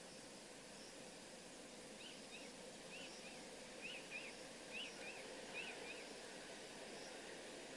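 Faint outdoor ambience with a steady hiss, and a bird calling in short paired chirps, about four pairs, from about two seconds in until about six seconds in.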